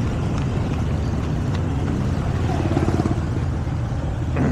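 Motor scooter on the move: steady engine rumble mixed with road and wind noise, cutting off abruptly at the end.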